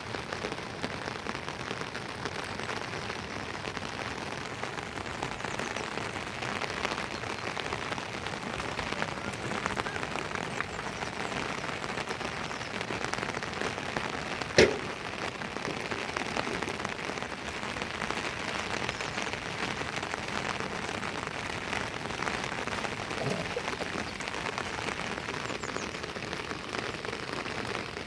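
Steady rain falling on surfaces, with one sharp knock about halfway through.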